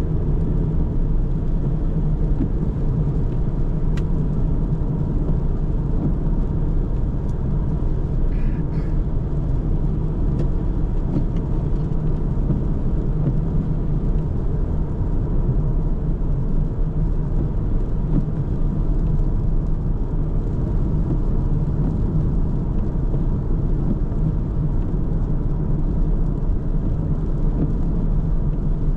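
Car driving along a road: a steady low rumble of engine and tyre noise, with a few faint clicks.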